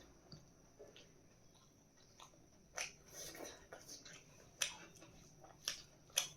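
A person chewing food close to the microphone, with a few sharp clicks and crunches, the loudest of them in the second half.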